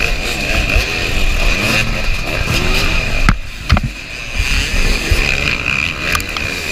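KTM 300 two-stroke dirt bike engine revving up and down hard under racing load, with a couple of sharp knocks about halfway through.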